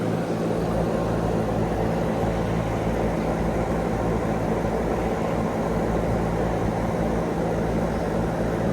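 Goodman GSZB4 2.5-ton heat pump running steadily: a low compressor hum under the rushing air of the outdoor fan.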